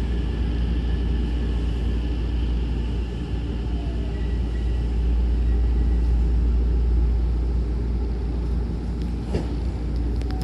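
Hankyu train rumbling steadily, with a faint thin whine in the first half and a light click near the end.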